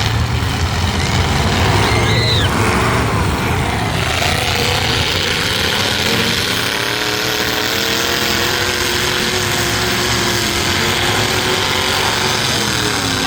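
Demolition-derby truck engines running and revving hard, their pitch rising and falling.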